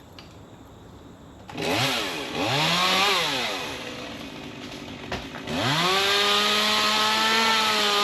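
Chainsaw revving: two short bursts of throttle, rising and falling, about a second and a half in, then brought up to high revs and held steady for the last two and a half seconds.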